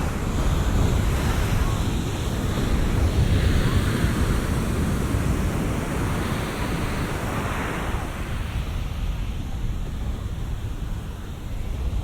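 Big ocean waves breaking and washing in, recorded binaurally, with several surges swelling and fading, about one, three and a half and seven and a half seconds in. Wind rumbles on the microphone underneath.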